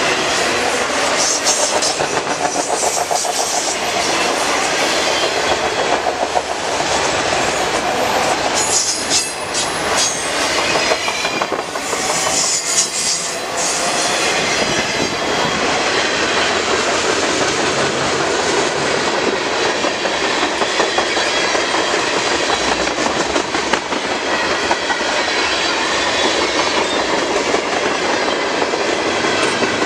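Canadian National freight train of autorack, hopper and tank cars rolling past, loud and steady, its steel wheels clattering over the rail joints.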